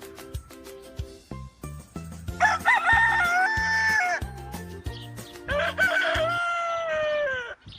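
Rooster crowing twice, each crow about two seconds long, the second falling in pitch at its end, over light background music.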